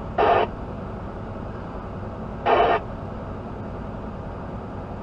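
Steady drone of a truck cab on the road, broken twice by short, loud bursts of hiss that cut in and out abruptly, near the start and about two and a half seconds in.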